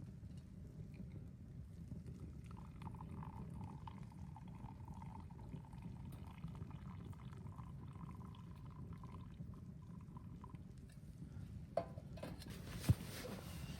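Liquid being poured, faint, over a steady low rumble, with two sharp knocks and a louder hiss near the end.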